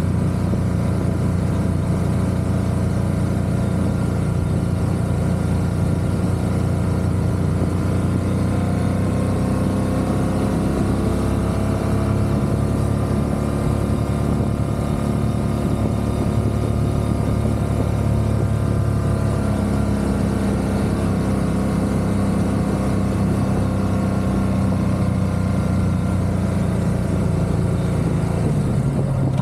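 Motorcycle engine running steadily on the road, its pitch rising gently about a third of the way in and easing back down later as the speed changes.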